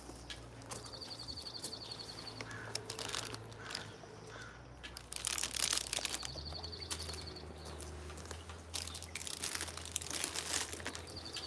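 A songbird singing the same short, high, even trill three times, about five seconds apart, with bouts of rustling and crackling in between.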